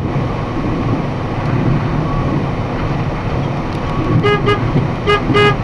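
Steady low rumble of a vehicle on the road, with four short horn toots in two quick pairs near the end.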